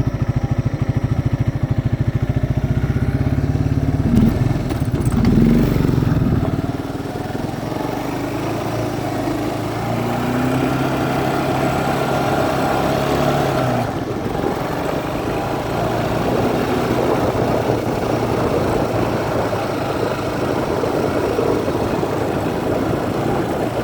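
1950 Farmall tractor engine running in the cold, fast and loud at first, then settling into a steadier, lower idle about six and a half seconds in.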